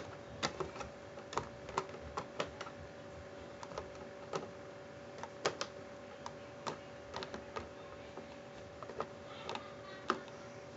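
Irregular light clicks and taps of small hard Beyblade parts being handled, over a faint steady hum.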